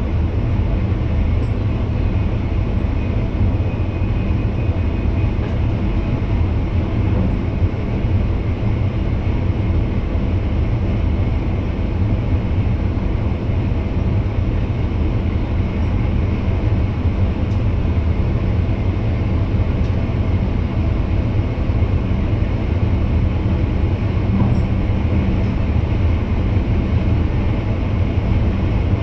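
NS VIRM double-deck electric multiple unit running along the track, heard inside the driver's cab as a steady low rumble.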